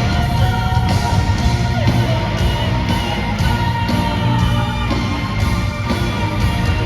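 Gothic metal band and orchestra playing live, loud and continuous, with a steady beat of hits about once a second.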